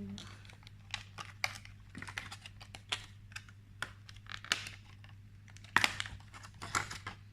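Irregular light clicks and taps of a cardboard box and its plastic packaging being handled and opened, with a sharper tap about six seconds in. A faint low hum runs underneath.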